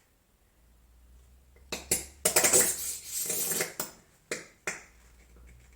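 Small hard objects clinking and clattering as they are handled: two sharp clicks, then about a second and a half of loud rattling, then two more clicks.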